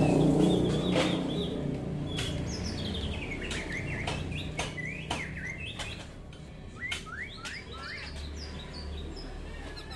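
Small birds chirping: many short, rising chirps with sharp clicks among them, while a low rumble fades away over the first couple of seconds.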